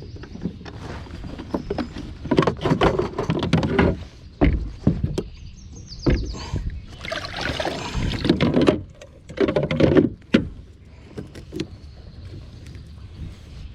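Knocks, clicks and scuffs of gear being handled in a fishing kayak, with the loudest runs of knocking about two to four seconds in and again from about seven to ten seconds.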